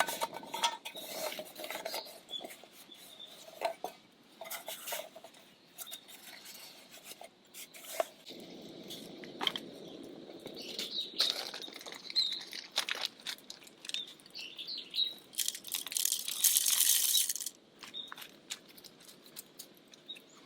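Camp cookware and utensils clinking and being handled, in scattered knocks with a longer stretch of rustling about halfway through, while small birds chirp in the background.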